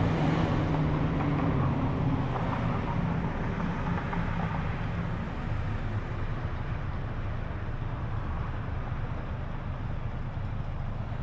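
Car engine moving away, its low tone fading over the first few seconds and leaving a steady low rumble.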